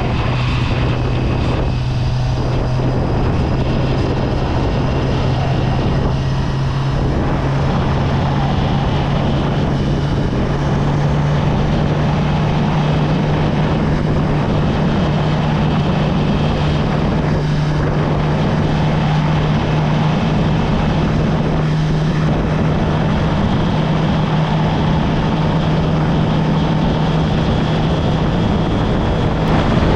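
Motorcycle engine running at steady cruising speed, heard through a GoPro with no wind guard fitted, so heavy wind noise on the microphone covers much of it. The engine note holds steady and rises slightly about ten seconds in.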